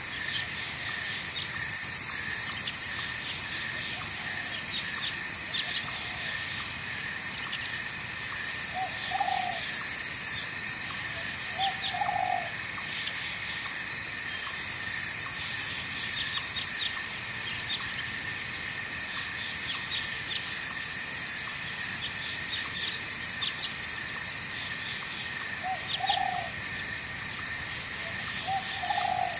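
Night forest ambience: a steady chorus of crickets and other insects, with runs of quick chirps and four short low calls at intervals, over the faint even rush of a flowing stream.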